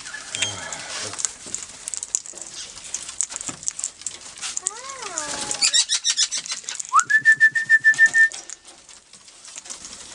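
Wild parrots being hand-fed: scattered clicks and short chirping calls, a wavering call about five seconds in, then a steady whistled note lasting about a second a couple of seconds later.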